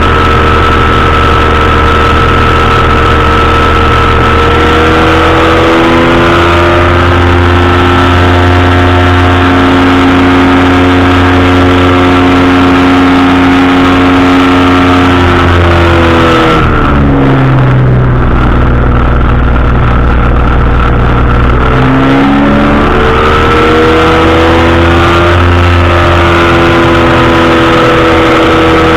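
Powered parachute's engine and propeller running loud. The pitch eases down about five seconds in, drops to a low throttle setting around the middle, then throttles back up a few seconds later.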